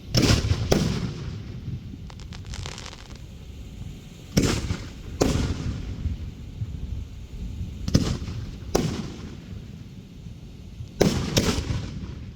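Fireworks going off in pairs of loud bangs, four pairs about three to four seconds apart, each bang trailing off in a low rumble. A faint crackle comes between the first two pairs.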